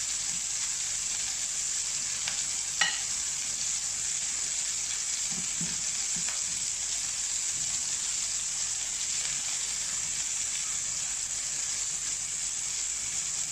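Chicken pieces frying in hot oil in a frying pan, a steady sizzle as they brown. A single sharp click about three seconds in.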